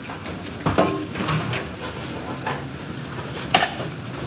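Kitchen clatter: metal pans and utensils knocking and clanking, half a dozen sharp hits with the loudest about three and a half seconds in, over a steady background hiss.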